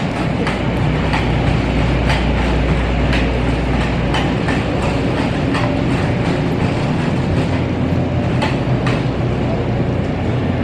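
Wheels rolling over a hard floor: a steady rumble with a clack about twice a second.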